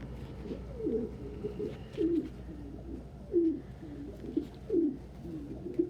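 A male domestic pigeon cooing repeatedly in low, rolling phrases, the loudest coming about every second and a half: his display and dominance cooing.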